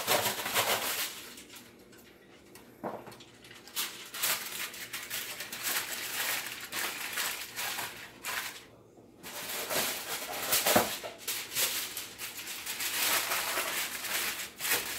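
Aluminum foil crinkling and rustling as it is spread and pressed over a baking pan, in bursts with short pauses.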